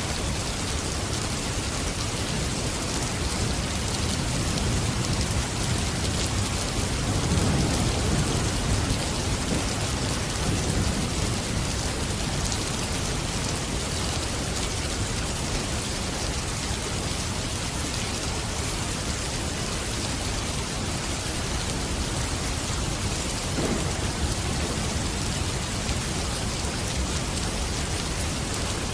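Steady rain falling, with a low rumble that swells and fades about seven to eleven seconds in.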